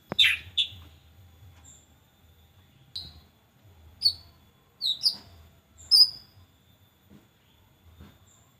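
White-rumped shama (murai batu) calling in the harsh 'konslet' style used as a lure to provoke other shamas: two rasping bursts right at the start, then single short notes about once a second, several falling in pitch.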